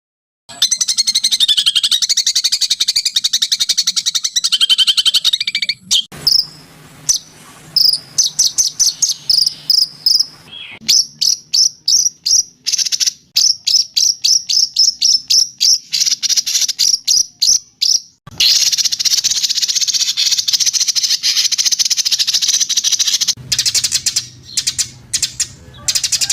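Small songbird's recorded song: long, fast, high trills alternating with runs of sharp repeated chirps that quicken. It starts and stops abruptly.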